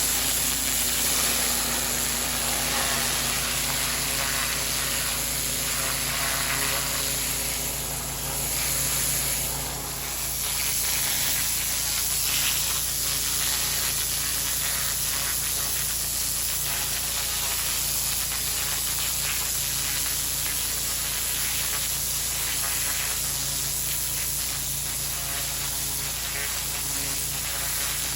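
Pressure washer jet spraying onto block paving: a steady, loud hiss of high-pressure water over the low hum of the machine. It dips briefly about 8 and 10 seconds in.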